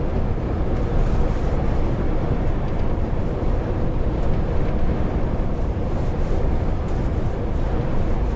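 Steady low drone of a truck's diesel engine and tyre and road noise on the move, with no change in speed.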